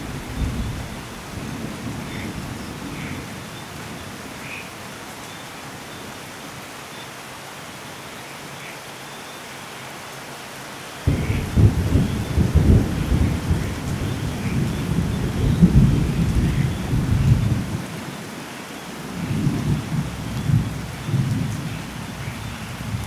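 Steady rain with rolling thunder. A rumble fades away in the first few seconds, then a thunderclap breaks in suddenly about eleven seconds in and rumbles for several seconds, and a weaker rumble follows near the end.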